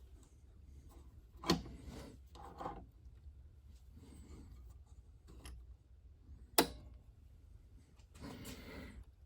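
Steel fixture parts and clamps being handled and adjusted on a steel welding table: two sharp metal knocks, about a second and a half in and again near seven seconds, with quieter scraping and rubbing between.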